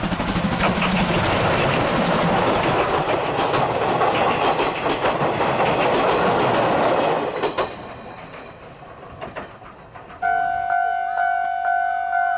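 Steam-hauled passenger train, C12 66 steam locomotive and its coaches, passing close by, its running noise fading away after about seven seconds. Near the end a steady two-note electronic chime starts, repeating about twice a second.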